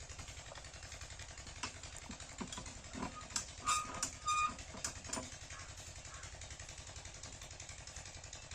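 7 HP single-cylinder diesel pumping engine running steadily with an even, rapid chug. In the middle there are a few sharp knocks and metallic clinks, the loudest sounds here.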